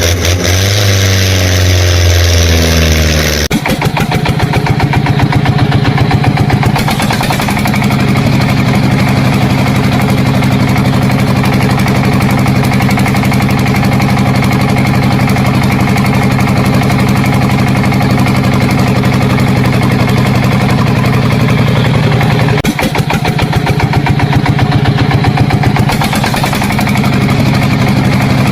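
An engine running with a fast, even pulsing. Its pitch shifts for the first few seconds, then it settles into a steady run about three and a half seconds in.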